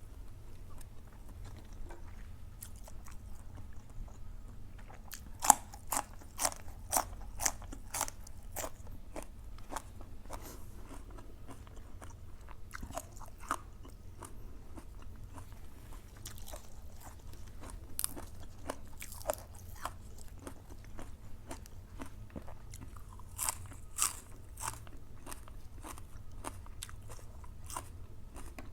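A person chewing and biting crunchy food close to the microphone: sharp crunches come in quick clusters, loudest about five to nine seconds in and again around twenty-four seconds, over a low steady hum.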